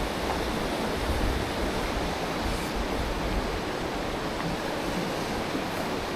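Mountain stream water rushing steadily, with a restless low rumble of wind on the microphone.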